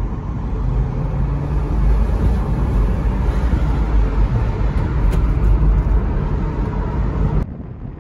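Porsche 986 Boxster's flat-six engine pulling at around 3,000 rpm as the car accelerates, heard from the open cockpit together with wind and road noise. About seven and a half seconds in, the sound drops suddenly to a quieter, duller rumble.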